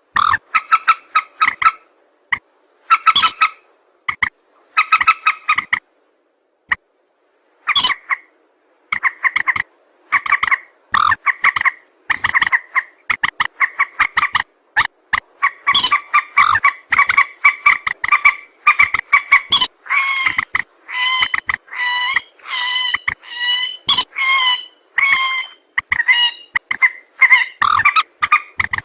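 Burung mandar (rail) calls from a bird-lure recording: rapid strings of short, harsh pitched notes in bursts, with a pause about six seconds in, then a denser, more continuous run of calls from about halfway through.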